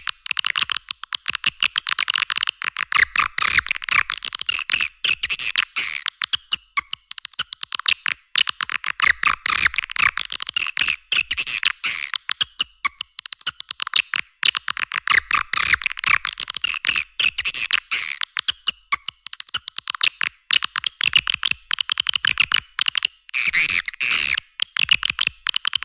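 Swiftlet lure call: a dense, unbroken stream of rapid, high-pitched swiftlet chirps and twitters, thin-sounding with no low end.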